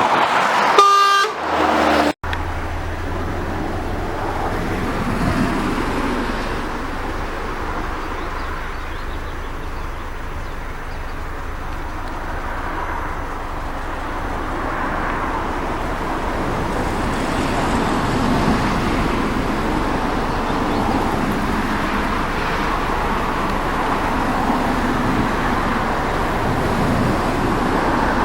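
A car horn toots briefly about a second in. After a sudden cut, a car's steady engine and road noise runs on while driving.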